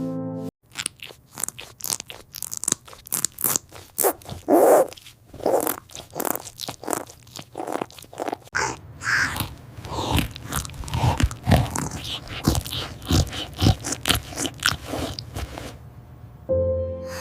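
Close crunching and chewing: irregular crisp crunches, several a second, like something crunchy being bitten and chewed.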